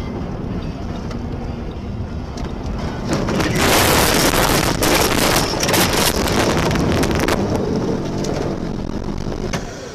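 A car on the move, with steady road and wind noise. About three seconds in, a much louder rushing noise with crackles sets in, lasts about four seconds and then eases.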